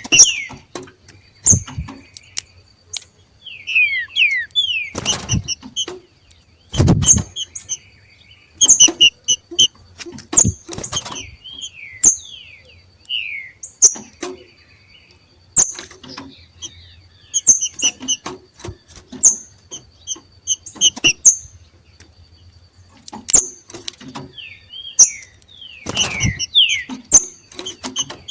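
Two green-winged saltators (trinca-ferro) giving their 'macheado' calls: short harsh bursts with quick falling whistles, repeated every second or two. This call marks birds coming into breeding condition. A few dull thumps sound among the calls.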